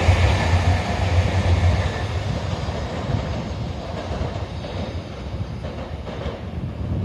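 Coupled E2 and E3 series Shinkansen train running as it departs, its rumble and hum steadily fading as it moves away.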